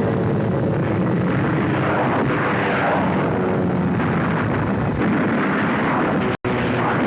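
Steady roar of aircraft engines on an old film soundtrack, as fighter-bombers attack; the sound cuts out for an instant near the end.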